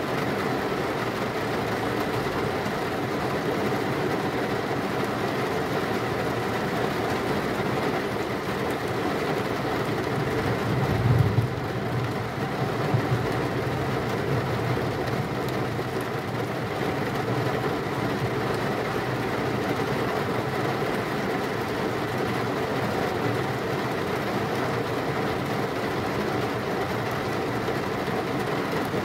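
Heavy rain pouring steadily, with a short low rumble of thunder about eleven seconds in.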